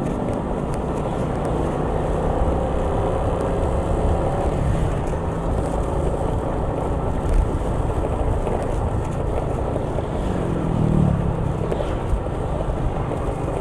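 Motor vehicle engine running steadily with road and traffic noise; another engine's pitch rises and falls about ten seconds in.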